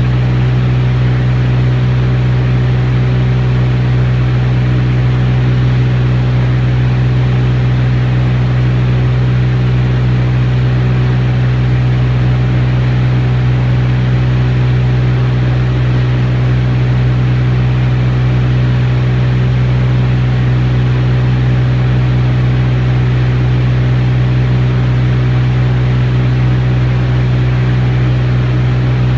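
Beechcraft T-34 Mentor's piston engine and propeller running at steady power, a loud, unchanging drone heard from on board the aircraft in flight.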